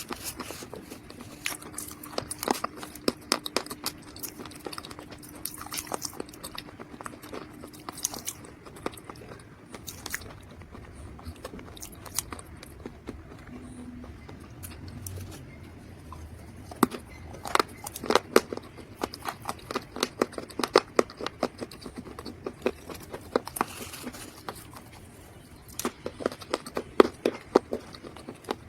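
Dry mud being bitten and chewed close to the microphone: clusters of sharp, crisp crunches with a quieter pause in the middle.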